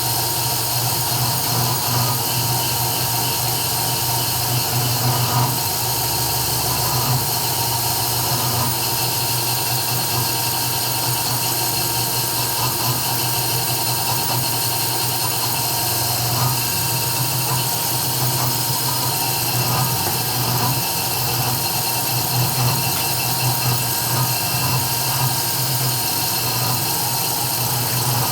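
Desktop CNC 3040 router's spindle running steadily with a high whine while it engraves the workpiece.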